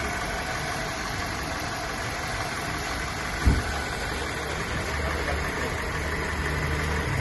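Car engine idling steadily, with a single low thump about halfway through.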